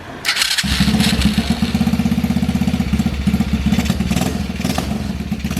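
A 125 cc motorcycle engine in a homemade mini 4x4 rock crawler starting: a short rasp, then it catches about half a second in and runs at a steady idle with rapid, even pulses.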